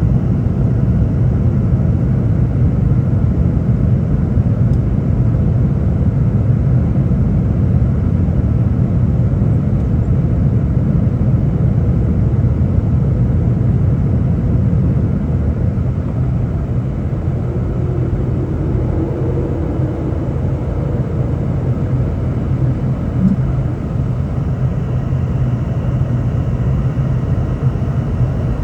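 Steady low rumble of engine and airflow noise inside the cabin of a Boeing 717-200 airliner.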